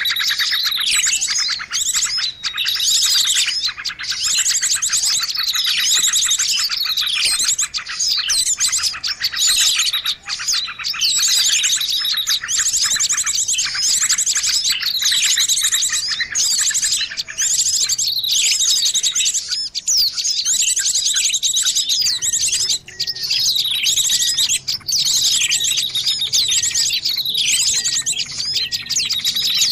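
A recorded bird-luring call: many birds chirping and trilling densely, with fast repeated chirps and falling whistled notes overlapping without a break. The recording is played to draw wild birds in to a perch or trap.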